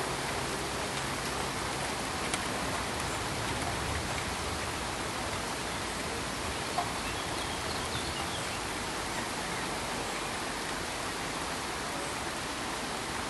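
Steady pink noise: an even, unbroken hiss.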